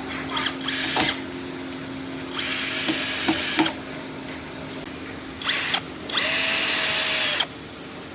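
Power drill run in several trigger pulls: two short bursts near the start, then two longer runs of over a second each, the motor whine rising as it spins up and dropping as it stops. A steady low hum runs underneath.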